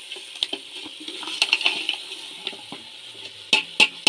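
Goat trotters and head frying and bubbling in masala in a pressure cooker pot while a metal spoon stirs them, ticking and scraping against the pot. Two sharp knocks of the spoon on the pot come near the end.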